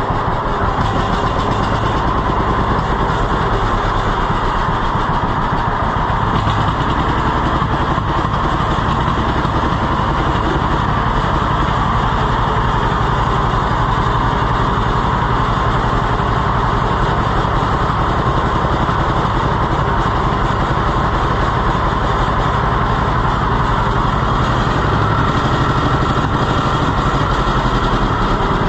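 Tractor engine idling steadily at a low, even idle, without pause or change.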